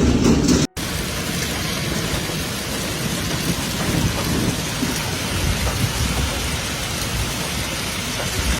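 Storm precipitation pelting down as a steady, dense hiss with low rumbling underneath, in a hailstorm. There is a brief dropout to silence just under a second in.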